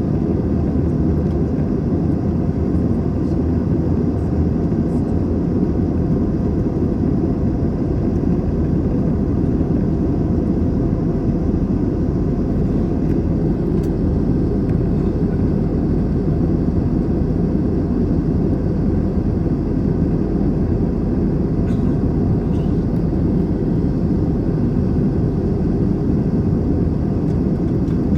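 Airbus A321 cabin noise in flight: the engines and airflow heard from inside the cabin as a steady, deep rumble that does not change.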